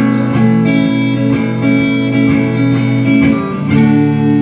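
Live band playing an instrumental passage with electric guitar to the fore, picked notes over sustained chords, settling into a long held chord near the end.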